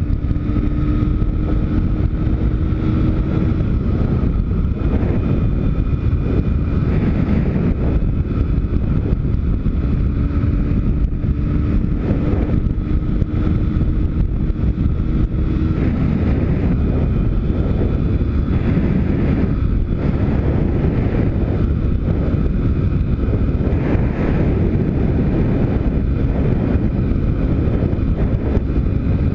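Pit bike's YX 160cc single-cylinder four-stroke engine running on a ride, its pitch rising and falling with the throttle, under heavy wind noise on the microphone.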